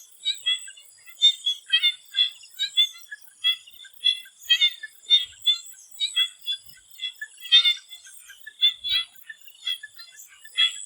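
Swamp frogs calling: short chirping calls repeated over and over, about two a second, some overlapping, over a steady high thin hum.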